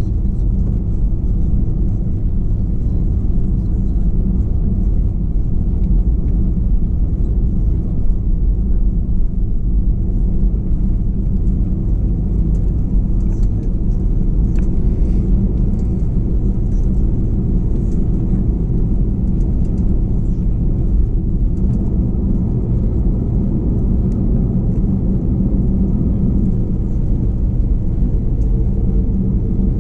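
Cabin sound of an Airbus A321 on the ground before take-off: a steady low rumble and hum from the engines at idle while the aircraft taxis, with faint light rattles of cabin fittings.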